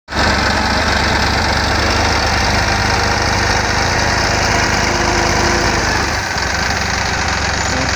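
Massey Ferguson 9500 4x4 tractor's diesel engine running steadily, with a brief dip in its low rumble about six seconds in.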